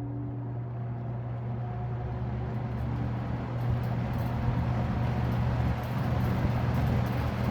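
Vintage McGraw-Edison Eskimo box fan switched on low: its motor hums steadily while the rush of air grows louder as the blade, refitted with screws and nuts in place of rivets, spins up.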